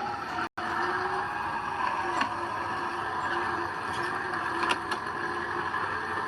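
Heavy diesel earthmoving machinery running steadily with a steady engine hum, and a few short metallic clanks. The sound cuts out completely for a split second about half a second in.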